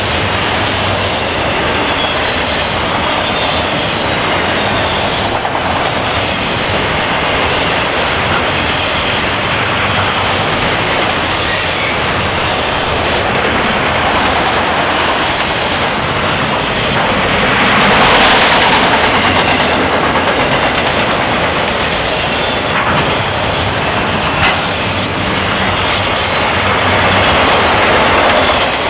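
Freight train of multi-level autorack cars rolling past at speed: a steady rumble and rattle of steel wheels on rail. It swells louder about two-thirds of the way through, and a few sharp clicks follow near the end.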